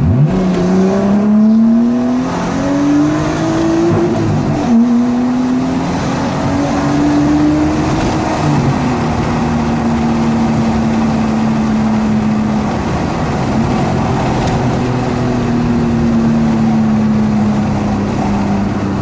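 Nissan Skyline R33's straight-six with a straight-pipe exhaust, accelerating through the gears. The engine pitch climbs, drops at a gear change about five seconds in and again near nine seconds, then settles into a steady cruise.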